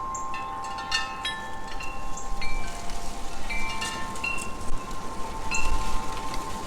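Metal wind chimes ringing in a breeze: many notes at different pitches struck irregularly, each ringing on briefly, over a lower tone that keeps sounding.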